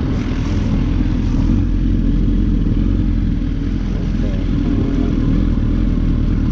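A vehicle engine running steadily with a constant low drone and no clear revs.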